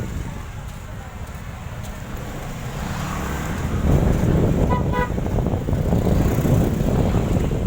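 Wind buffeting the microphone over the running engine and road noise of a moving motorbike, growing louder about four seconds in. Near the middle, a vehicle horn gives two short toots.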